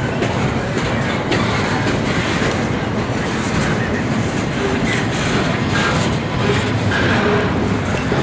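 Intermodal freight train's cars rolling past, wheels clacking over the rail joints in a steady rumble.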